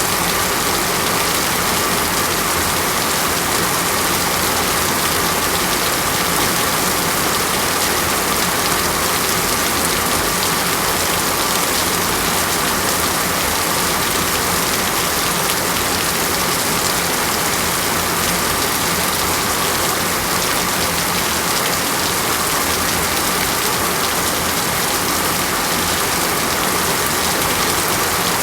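Steady rain falling, an even hiss of drops on a surface with no breaks or thunder.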